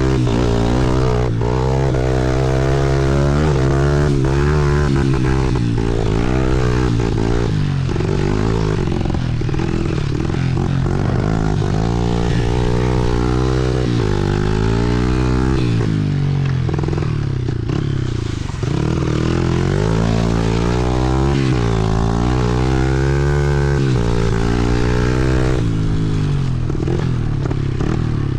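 Small four-stroke pit bike engine being ridden hard, its pitch rising and falling again and again as the throttle is worked and it shifts through the gears.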